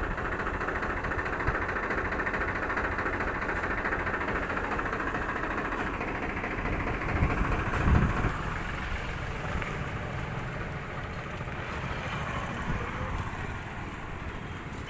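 An engine running steadily at idle, with a brief louder surge about halfway through.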